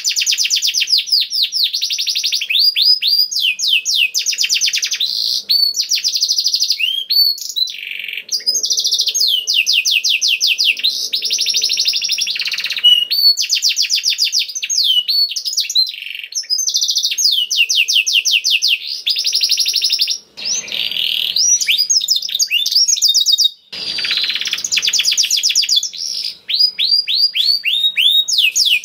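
Domestic canary singing continuously: long fast trills of repeated high sweeping notes, switching from one rolling phrase to the next every second or two, with a couple of brief breaks near the end.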